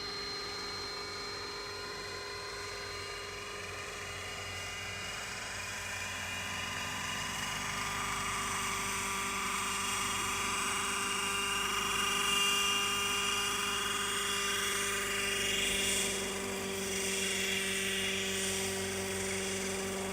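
Engine-powered radio-controlled model helicopter flying, its small engine and rotor holding a steady whining pitch. It grows louder through the middle.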